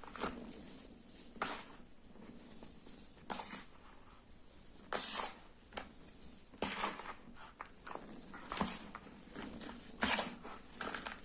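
Sports chalk being worked by hand, with about seven short crunching, scraping strokes spaced every one and a half to two seconds.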